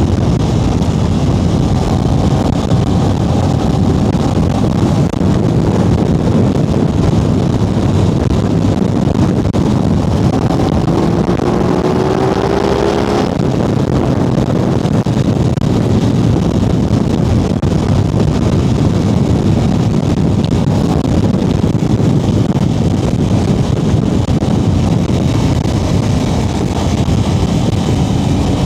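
Aprilia RS660 Extrema's 659 cc parallel-twin engine running on the move, with steady wind and road rush. A brief rising engine tone swells just before the halfway point and then cuts off.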